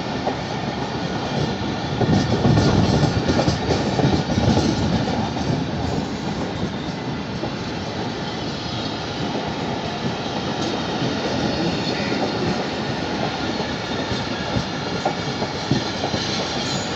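Pakistan Railways passenger coaches rolling past at speed, their wheels rumbling and clattering on the track. The sound swells for a few seconds about two seconds in, then runs on steadily.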